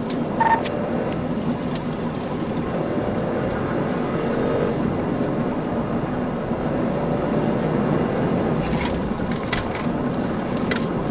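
Patrol car driving at speed, with steady engine and road noise and a constant low hum heard from inside the cabin. A few short clicks come near the end.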